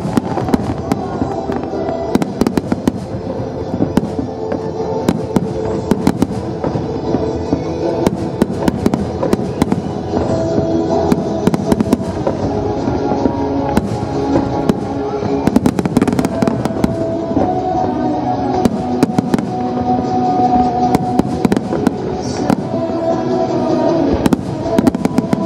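Aerial firework shells bursting in rapid succession, many sharp bangs and crackles throughout, over steady music with held notes.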